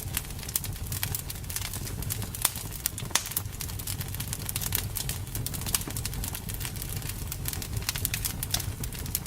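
Campfire crackling: many irregular sharp pops and snaps of burning wood over a steady low rumble of the flames.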